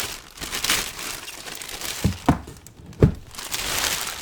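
Clear plastic wrap crinkling and rustling as it is pulled and torn off a cardboard box, with a few sharp, louder crackles about two and three seconds in.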